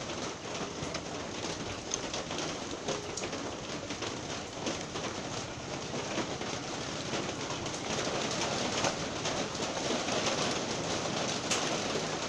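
Steady rain falling, with many individual drops ticking sharply through an even hiss.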